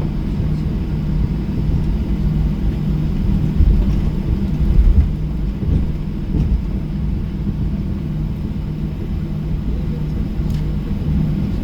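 Cabin noise of a Boeing 737-800 on the ground: a steady low rumble from the CFM56-7B engines and airframe, with a low hum under it. There are a couple of louder low swells around four to five seconds in.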